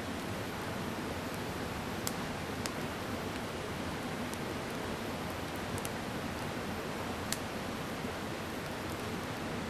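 Mountain stream rushing steadily, with a few sharp crackles scattered through.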